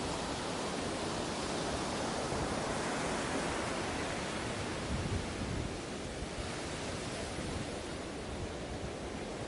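Ocean waves breaking and washing on a beach: a continuous rush of surf that swells for a few seconds and then eases off after about six seconds.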